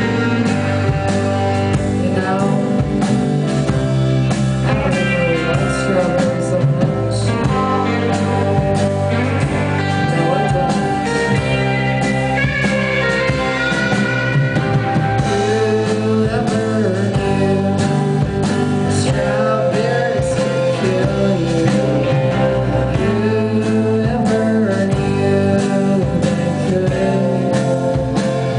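Live rock band playing a song: guitars and drums with a voice singing over them.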